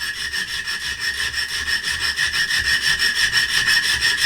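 Hand hacksaw cutting a slit in a block of aluminium, in a steady rhythm of quick back-and-forth strokes with a metallic ring.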